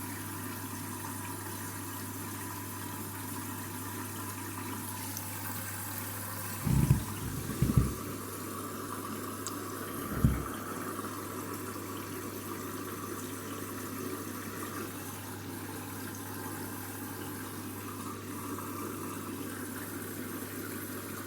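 Candy washing machine filling with water for the rinse: a steady hiss of water running into the drum over a low hum. A few dull thumps come about 7, 8 and 10 seconds in.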